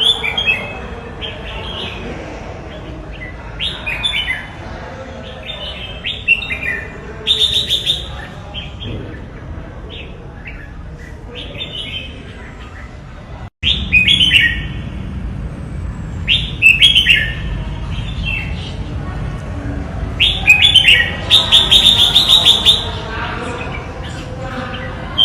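Red-whiskered bulbul singing: short bright whistled phrases repeated with pauses, with fast chattering runs about a third of the way in and again near the end, over a steady low background rumble. The sound drops out for an instant just past halfway.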